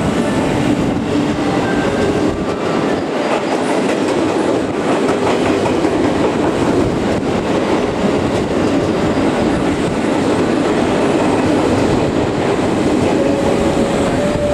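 Out-of-service electric multiple-unit train running through the station without stopping, a loud steady rumble of wheels and running gear on the rails.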